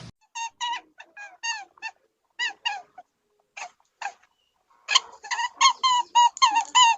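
Short, high squeaky animal calls, each dropping in pitch. They come singly at first, then about eight in quick succession near the end.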